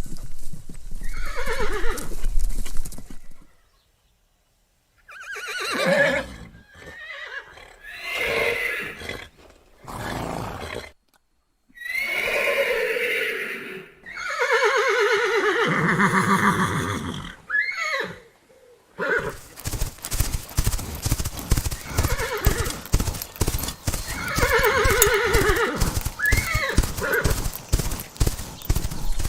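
Horses neighing and whinnying repeatedly, each call falling in pitch, with short silent gaps between calls in the middle. Hooves clip-clopping rapidly at the start and again through the last ten seconds, with more whinnies over them.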